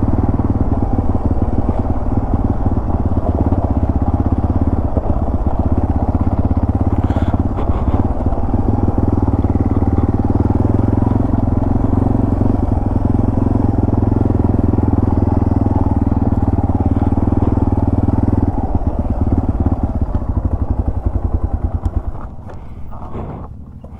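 Yamaha TW200's single-cylinder four-stroke engine running steadily under way. About three-quarters of the way through the engine note changes, and near the end it backs off and falls much quieter.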